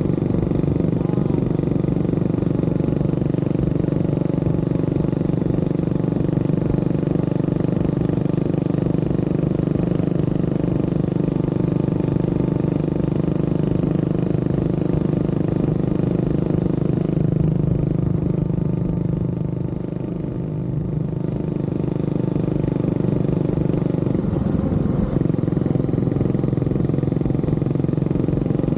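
Honda CB400SS's single-cylinder engine running steadily on the move, with wind and road rush. It eases off for a few seconds about two-thirds of the way through, then picks up again.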